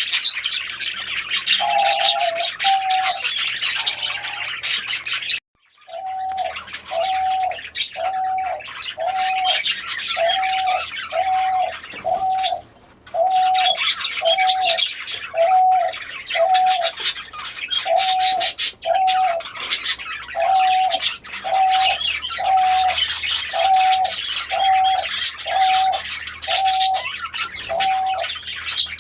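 Pigeons cooing, a short rising-and-falling coo note repeated about once a second, often in pairs, over dense high chirping of many birds. The sound cuts out briefly about five seconds in and dips again about twelve seconds in.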